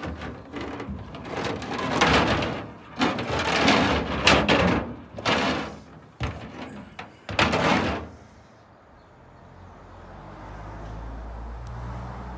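Irregular knocking and scraping as the steel winch cable is handled and wound back onto the winch drum, then a low steady hum for the last few seconds.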